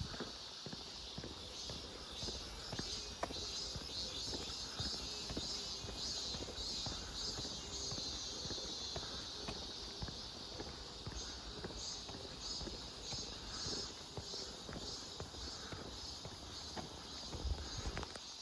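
Footsteps on a road with a steady, high chorus of insects chirring in the surrounding woods.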